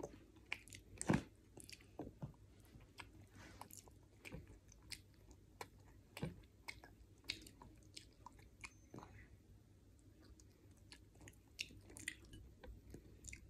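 Toddler chewing a mouthful of frosted cornflakes in milk: many small, irregular crunches, the loudest about a second in.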